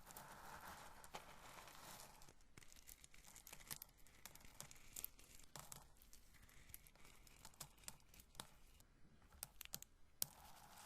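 Roasted corn kernels being rubbed and handled: a soft, faint rubbing hiss for the first two seconds, then many small crisp clicks as the kernels knock against each other and drop.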